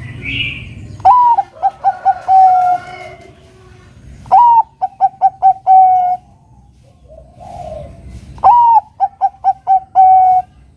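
Zebra dove (perkutut, Bangkok strain) cooing its song three times. Each phrase opens with a curved rising-and-falling note, runs into about four short quick notes and ends on a longer held note.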